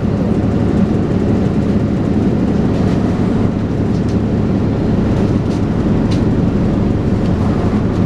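Dennis Trident 2 double-decker bus under way, heard from on board: a steady engine and drivetrain drone, with a few faint rattles or clicks in the middle.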